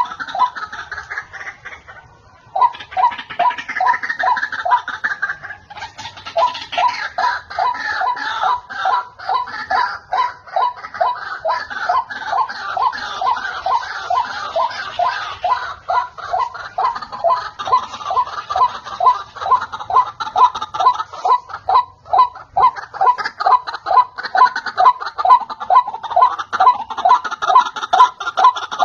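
White-breasted waterhen (ruak-ruak) calling: a loud, rapid series of repeated croaking notes, with a short break about two seconds in. It is a lure call used for trapping the bird.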